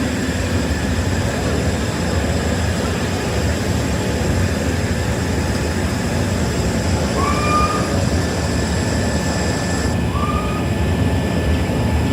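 Heavy workshop machinery running steadily: a dense low hum with faint constant high whines. Two short, high, slightly rising chirps come in the second half.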